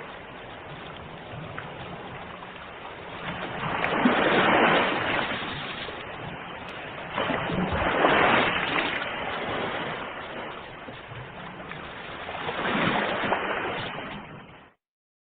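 Ocean waves breaking and washing on the shore, with three larger waves surging up about every four seconds over a steady wash. The sound cuts off abruptly to silence near the end.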